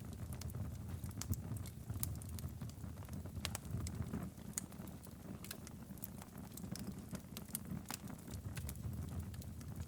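Wood fire crackling and popping in a fireplace: irregular sharp pops over a steady low rumble of flames.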